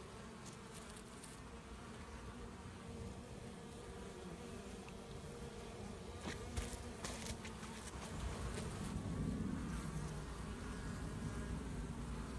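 Honey bees from a small swarm buzzing, a steady hum that swells louder about three quarters of the way through, with a few faint clicks.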